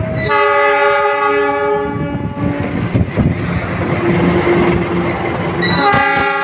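Argo Parahyangan passenger train passing at speed: a locomotive horn blast of about two seconds, then the rumble and clatter of wheels on the rails, and a second horn blast starting near the end.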